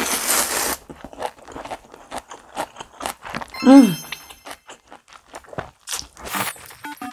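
Slurping in a mouthful of cold naengmyeon noodles with yeolmu kimchi, then crunching and chewing with quick wet clicks. About halfway there is a short, loud tone falling in pitch, and near the end a light tune begins.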